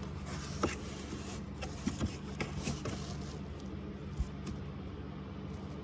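Scattered light clicks and taps of a hand tool working at the bolts of the plastic panel over the battery housing, over a steady low hum.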